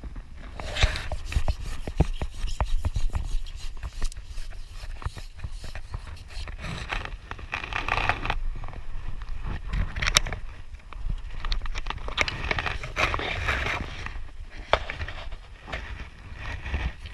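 Close-up handling noise: rubbing and scraping with many small irregular clicks and knocks, over a low rumble, typical of an angler's hands and gear working next to a body-worn camera's microphone.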